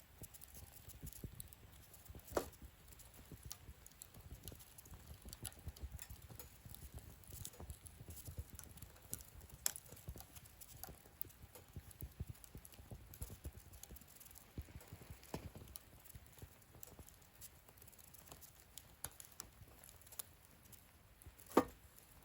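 Wood fire crackling in a fire stand: scattered small crackles over a low rumble, with two louder pops, one about two seconds in and one near the end.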